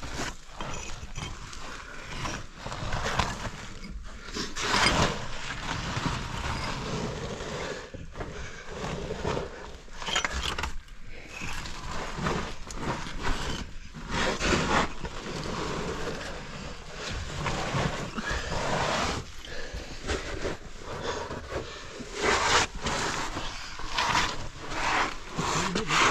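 A caver crawling and scrambling over rock in a tight cave passage: irregular scrapes and knocks of body and gear against the rock.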